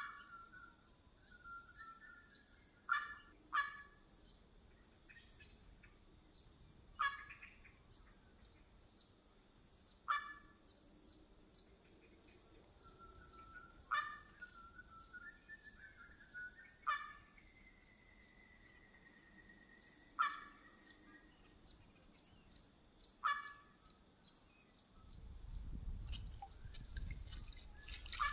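Birds calling: a short, sharp call repeats every three seconds or so over a fast, steady high-pitched chirping. A long, level whistle is held for a few seconds in the middle. A low rumble comes in near the end.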